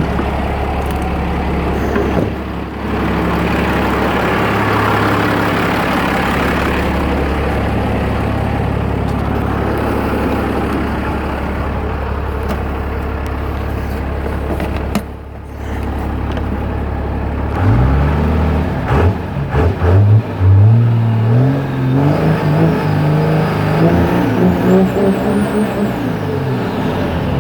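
1995 Dodge's 12-valve Cummins diesel, still cold, idling steadily, then revved in several quick rises and falls and one longer climb in the last third. The engine is really cold, so the revs are held back short of the full governor limit.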